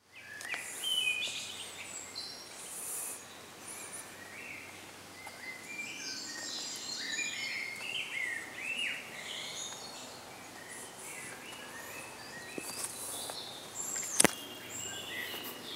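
Songbirds singing: a continuous run of varied chirps and warbling phrases over a faint outdoor hiss. A single sharp click comes about fourteen seconds in.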